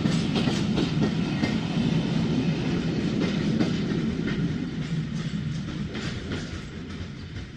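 The Jacobite steam train's passenger coaches rolling past on the track, a steady rumble with the clickety-clack of wheels over rail joints. The sound fades away over the last few seconds as the end of the train goes by.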